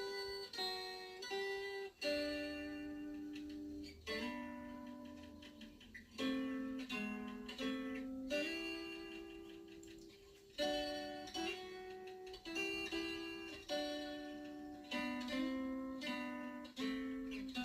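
Acoustic guitar music: plucked notes and chords, each struck and left to ring and die away, with a new note or chord every second or two.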